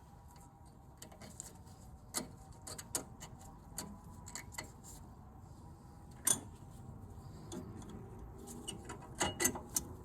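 Scattered light metallic clicks and knocks of hand tools and brake parts being handled, the loudest about six seconds in, then a quicker run of louder clicks near the end.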